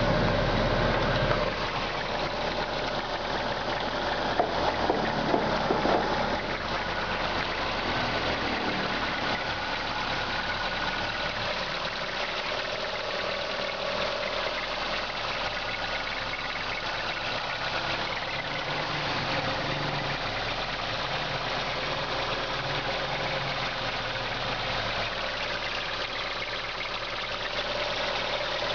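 Mitsubishi Colt Plus engine idling from a cold start with a persistent chirping squeak, the cold-engine abnormal noise that repeated adjustments have not cured.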